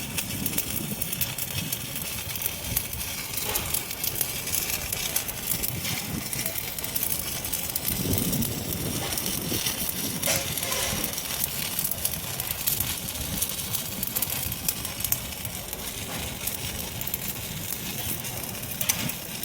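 Welding arc crackling and sizzling steadily during arc welding, a continuous fizz full of small irregular pops.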